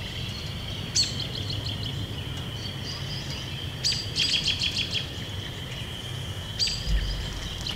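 Birds chirping in three short bouts, about a second in, around four seconds in and near the end, each a quick falling note followed by rapid repeated chirps, over a steady high-pitched drone.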